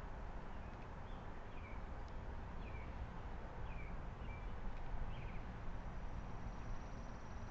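A small bird giving short, downward-sliding chirps roughly once a second over steady outdoor background noise. Near the end a high, steady insect trill comes in.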